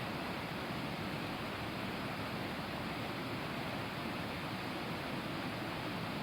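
Waterfall: falling water making a steady, even rush with no changes.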